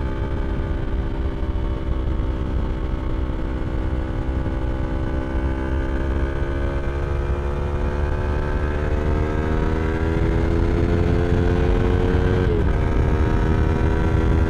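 2023 Yamaha R3's parallel-twin engine through an Akrapovič slip-on exhaust, accelerating with its pitch climbing steadily over several seconds. Near the end an upshift drops the pitch sharply before it pulls on. Wind rumble runs low underneath.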